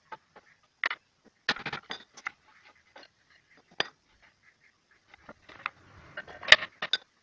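Wooden strips and small nails being handled and set down: scattered light clicks and clinks, with sharper knocks about four and six and a half seconds in.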